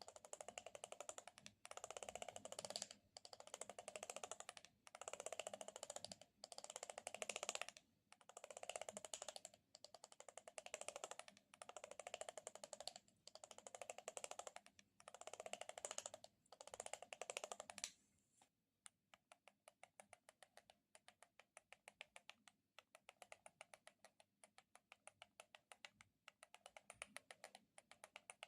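Faint close-miked ASMR handling sounds: rapid crackly clicking in strokes of about a second, about one every one and a half seconds. About two-thirds of the way through they give way to quieter, sparser single clicks.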